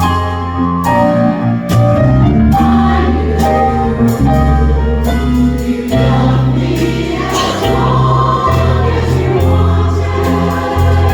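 Women's chorus singing to a backing band with a steady bass line and a regular beat.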